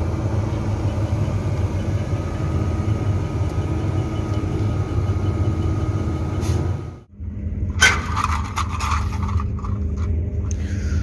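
An engine running steadily at a constant low hum. It cuts out abruptly about seven seconds in, then resumes with some rattling and knocking over it.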